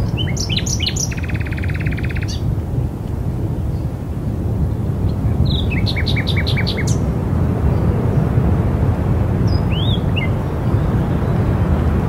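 Birds chirping over a steady low rumble. A burst of chirps with a fast buzzy trill comes in the first two seconds, a run of about six quick repeated notes comes midway, and two short notes come near the end.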